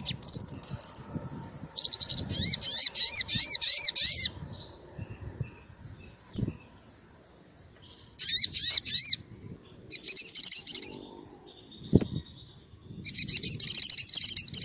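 A sogon sunbird (sriganti, a small Indonesian sunbird) singing in four bursts of fast, repeated high chirping notes, each lasting about one to two and a half seconds. Two brief knocks fall between the bursts.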